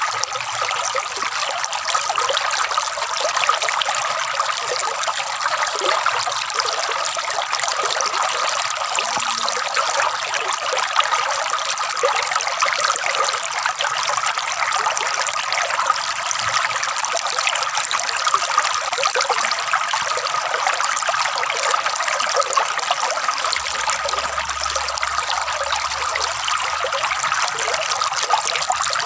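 Flowing water gurgling and trickling steadily.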